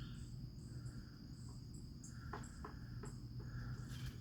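Steady high-pitched insect trill, with scattered faint bird chirps and a few soft clicks about two and a half seconds in.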